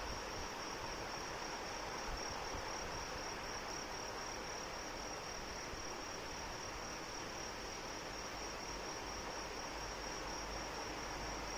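Steady rain falling, with insects singing a continuous, rapidly pulsing high trill over it.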